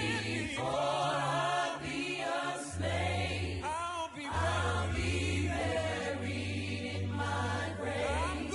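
Choir singing a slow, gospel-style spiritual, the voices wavering with vibrato over sustained low notes, with short breaks between phrases.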